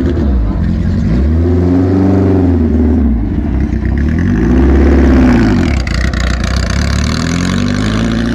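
Porsche 904 Carrera GTS's racing engine revving as the car pulls away and drives off. The engine note climbs and drops back twice, then starts climbing again near the end.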